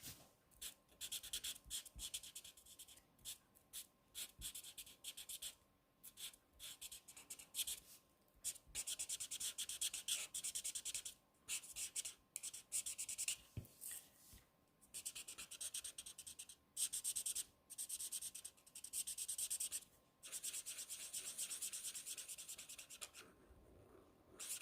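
Coloring marker rubbed across cardstock in a series of short back-and-forth strokes while filling in a flower petal, a soft scratchy sound with brief pauses between strokes.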